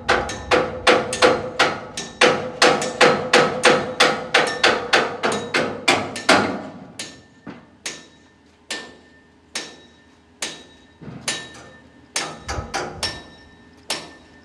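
Hammer blows: a quick run of strikes, about three a second, for the first six seconds or so, then slower single blows about once a second, each with a short ring.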